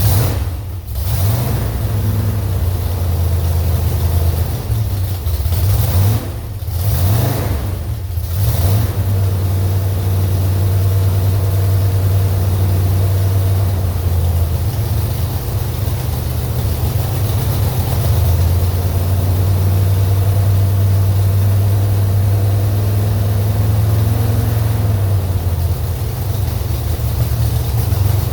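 Slover 305 engine running steadily on a test stand, with a brief change in engine speed about six to eight seconds in.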